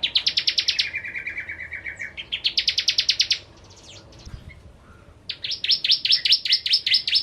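Bar-winged prinia (prenjak jawa) singing loud, fast trills of rapidly repeated sharp notes in three bouts: the first drops into a lower buzzy run, and after a short pause the last bout starts about five seconds in.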